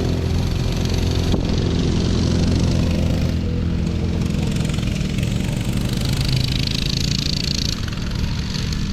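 Small off-road vehicle engine running steadily, a low even drone.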